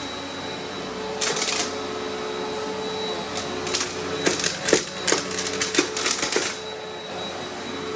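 Eureka Altima upright vacuum cleaner running steadily over long-unvacuumed carpet, with bursts of crunchy clicking and crackling as grit and debris are sucked up, busiest about halfway through.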